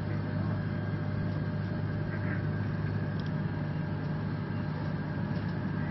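Steady low machine hum in the aircraft operating room, even throughout.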